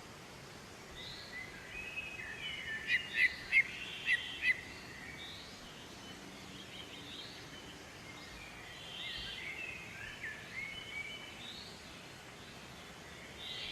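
Several small birds chirping and calling over a faint steady background hiss, with a run of about five loud, sharp chirps around three to four seconds in.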